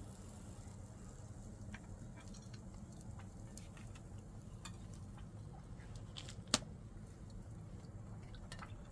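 Scattered faint clicks and small knocks, with one sharper click about six and a half seconds in, over a low steady hum.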